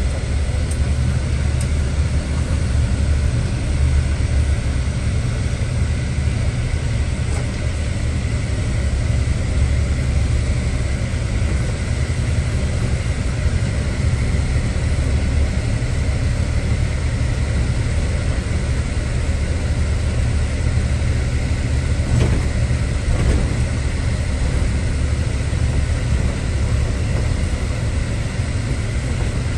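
Steady low engine rumble, even and unchanging, with a faint high whine over it.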